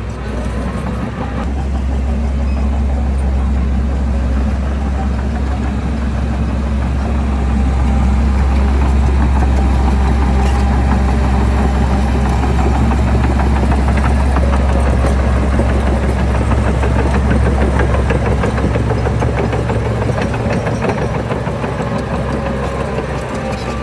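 Heavy construction-machine diesel engine running steadily with a deep hum, growing a little louder about eight seconds in.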